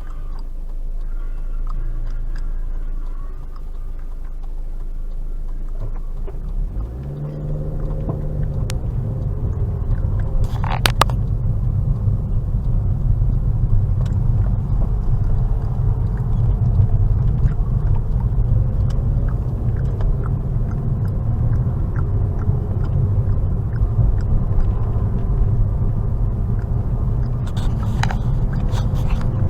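Car engine and road noise heard from inside the cabin: a low hum at first, then about seven seconds in the engine pitch rises and the car pulls away, running on with a steady low rumble. A few brief knocks sound along the way.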